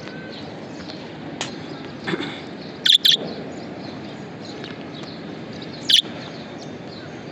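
Budgerigars chirping: a few short, high calls, two loud ones close together about three seconds in and another about six seconds in, over steady background noise.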